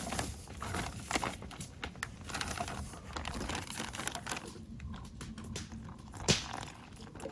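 Plastic bag being handled, crinkling and rustling with a quick run of small clicks and one sharper tick about six seconds in.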